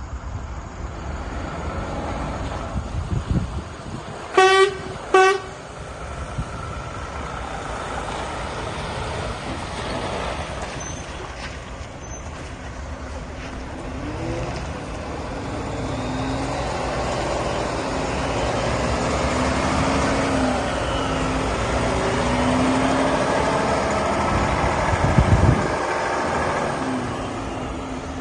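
Volvo FH 500 tractor unit's 13-litre six-cylinder diesel running, with two short blasts of the truck's horn about four and five seconds in.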